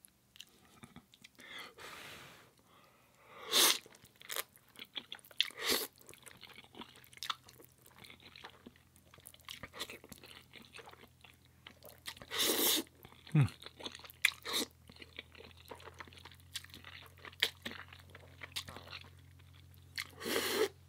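A person eating close to the microphone: irregular chewing and biting sounds, with a few much louder bites spread through.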